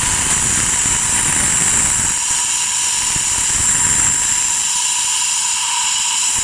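Compressed air hissing steadily from a blow gun, blown into a cylinder head's exhaust port to test whether the valve seals; cylinder 3's exhaust valve seems to hold.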